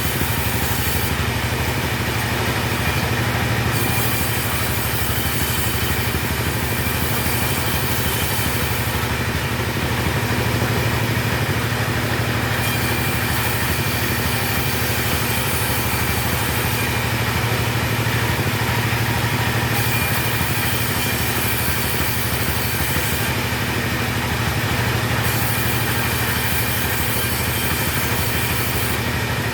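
Two-stroke chainsaw running steadily while sawing timber.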